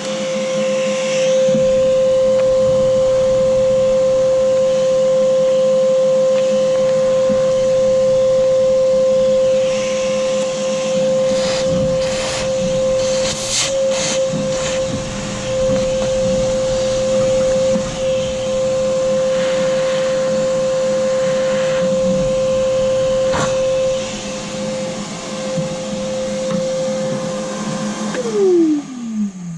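Vacuum cleaner running steadily with a constant motor whine as it sucks up dirt from around the engine, with a few sharp clicks about halfway through. Near the end it is switched off and the motor whine falls in pitch as it winds down.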